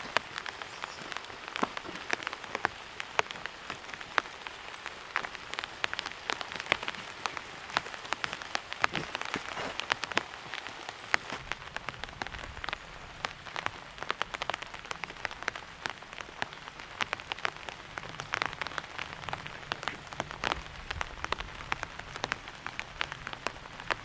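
Steady rain, with many separate drops tapping on a surface as irregular sharp ticks over a soft hiss. A low rumble joins about halfway through.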